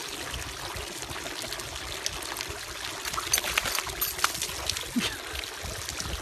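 Water trickling and splashing, with a cluster of sharp clicks or taps about three to four and a half seconds in.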